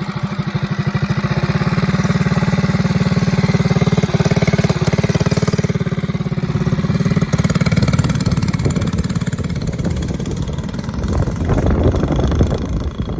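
Motovox Platinum mini bike's small single-cylinder engine running just after being started, with a fast, even putter; the sound turns more uneven in the last few seconds.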